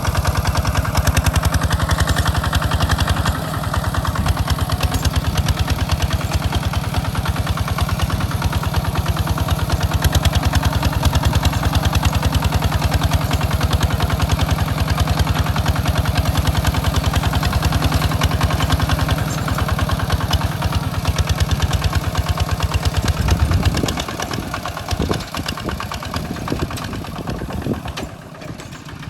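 Hinota tractor engine running steadily with a fast, even beat. About 24 seconds in, the sound drops in level and becomes uneven.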